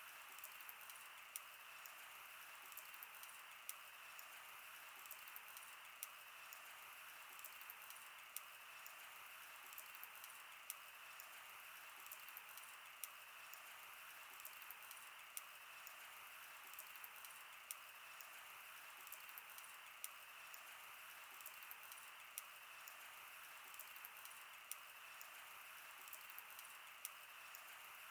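Wood campfire burning: a steady soft hiss with sharp crackles and pops at irregular intervals throughout.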